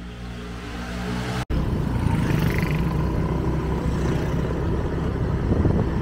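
Motorbike engine running steadily while being ridden, with wind noise on the microphone. The sound drops out for an instant about a second and a half in, then comes back louder.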